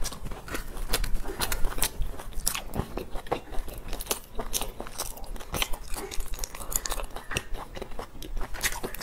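Close-miked chewing of a crisp, golden fried cake: a rapid, irregular run of sharp crunches.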